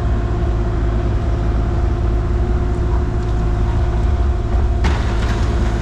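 Excavator's diesel engine running steadily while the machine tracks over, with a constant low drone and a steady whine. A broader hiss joins about five seconds in.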